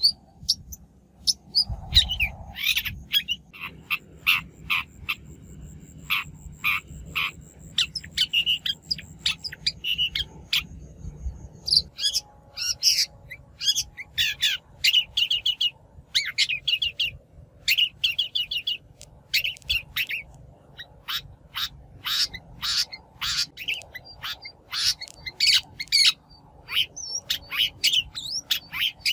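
Shrike calling: fast, continuous runs of short, harsh chattering notes, several a second, with hardly a break.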